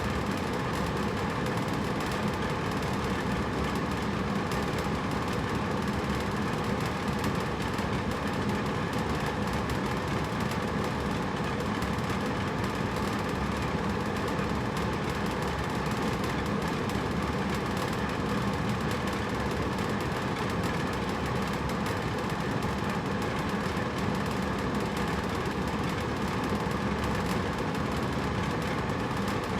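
Hotel room air conditioner running steadily: an even rush of air with a low hum underneath.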